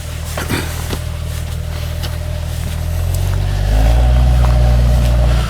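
Suzuki SJ's engine running under load off-road, getting louder and slightly higher from about halfway through as the driver gives it more throttle, then easing off at the very end. A few short clicks near the start.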